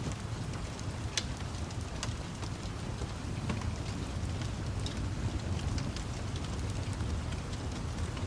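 Steady rain with a low rumble, mixed with the scattered sharp pops of a crackling wood fire.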